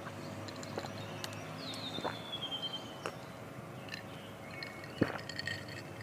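Wild birds singing: a slurred whistle that falls in pitch, then shorter chirps. A few sharp clicks and taps come through as well, the loudest about five seconds in.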